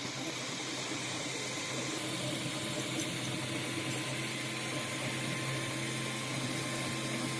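Anet A8 3D printer running mid-print: a steady mechanical hum with a constant low drone.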